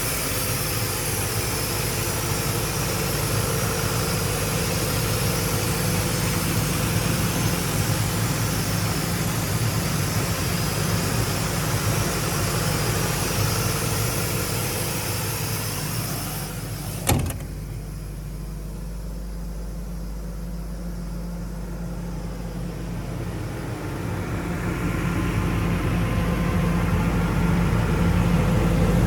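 Cummins F3.8 four-cylinder diesel engine of a Bobcat PA 10 12 V mobile air compressor, running steadily. Past the halfway point there is one sharp click, after which it runs quieter for several seconds, then its sound builds back up near the end.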